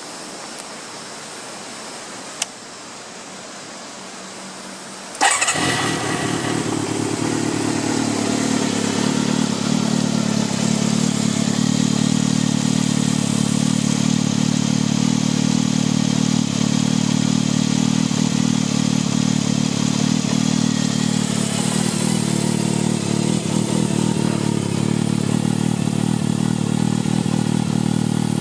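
Kawasaki Zephyr χ's air-cooled inline-four engine cold-started without choke: a sharp click about two seconds in, then the engine catches on the first try about five seconds in and settles into a steady idle.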